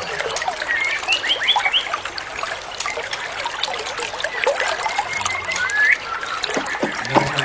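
Songbird whistles: a quick run of short rising notes, then one long high note ending in an upward slur, over a steady trickle of running water.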